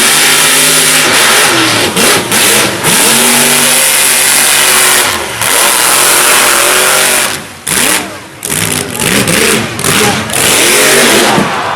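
Mega mud truck engine revving hard at full throttle, its pitch swinging up and down as the driver works the throttle. The sound cuts out sharply twice about two thirds of the way through, then the engine comes back in short, choppy bursts.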